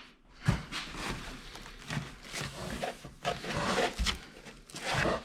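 Plastic packaging rustling and small parts knocking as plotter pieces are unpacked and handled, with a couple of sharper knocks, one about half a second in and one about four seconds in.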